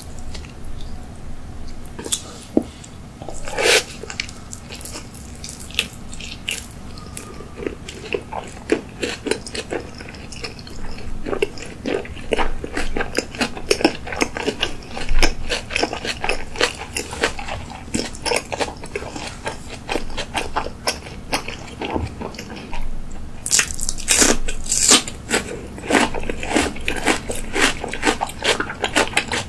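Close-miked chewing of a giant salmon nigiri (raw salmon over rice): a run of short mouth clicks, sparse at first, then dense through the second half, with a few louder bursts near the end.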